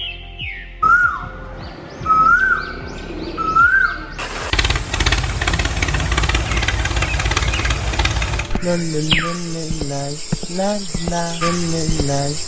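Cartoon sound effects: three rising-and-falling whoops, then an engine running with a rapid chugging for about four seconds, then a cartoon character's wordless voice with a couple of falling whistles.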